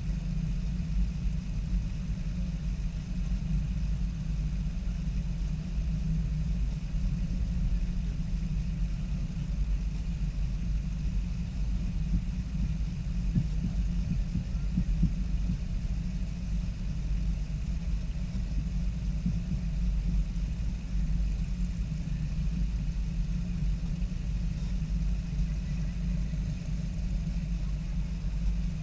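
Car engines idling: a steady low rumble that holds even throughout.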